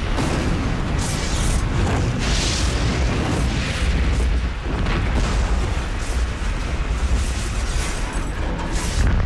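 Loud booms and a continuous heavy rumble, as of an aircraft crash and explosion, with music underneath.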